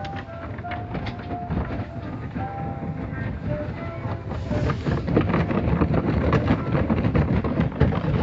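Automatic car wash machinery running, a dense rumbling and clattering that grows louder about halfway through, with music playing under it.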